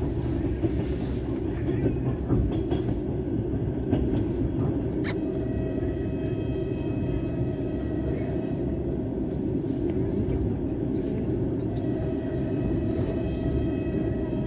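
Passenger train running, heard from inside the carriage: a steady low rumble of wheels on rails with a few sharp clicks. From about five seconds in, a faint steady high whine of several tones joins it.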